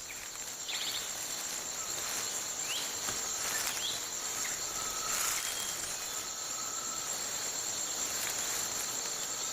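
Tropical rainforest insects keeping up a steady, high-pitched drone, with a few short chirps over it.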